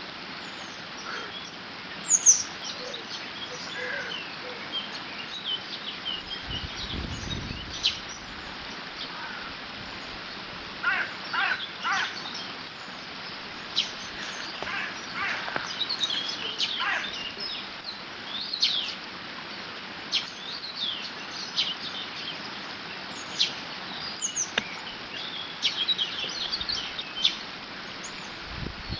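Several songbirds chirping and trilling over the steady rush of water running through a beaver dam, with a brief low rumble about seven seconds in.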